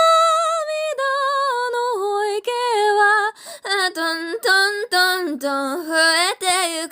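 A woman singing unaccompanied in a high voice: long held notes with vibrato, stepping down and back up in pitch, with short breaths between phrases.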